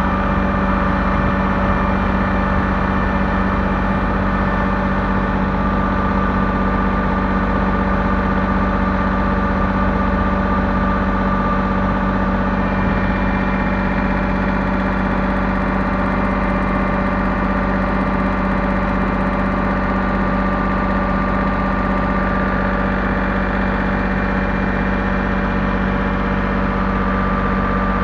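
Engine of heavy machinery, a dozer or tractor, running steadily at a constant speed.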